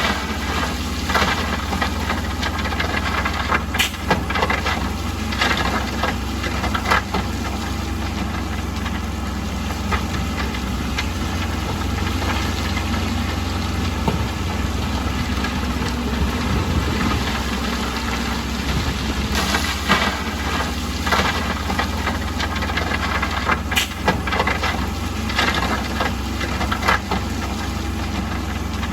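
Bulldozer's diesel engine running steadily, with irregular sharp clanks and knocks over it every second or two.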